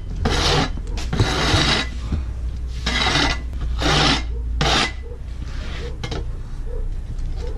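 Snow shovel scraping through snow in about seven rasping strokes, one longer stroke about a second in, over a steady low rumble.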